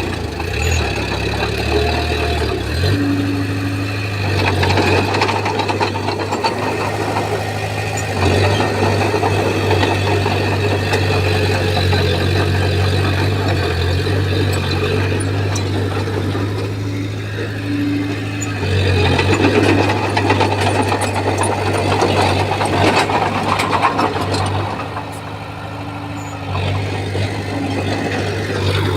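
Bulldozer's diesel engine running steadily, its sound swelling and easing as the load changes, with a broad clattering noise over the engine tone.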